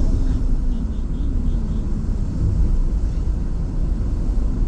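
Steady low rumble of a moving vehicle, with a faint wavering hum in the first couple of seconds.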